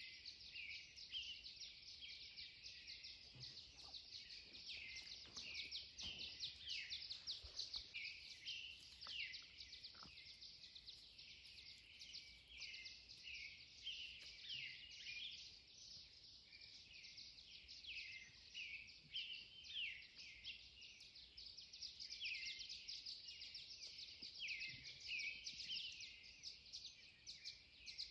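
Dawn chorus: many songbirds singing at once, a dense unbroken stream of short high chirps and trills overlapping one another.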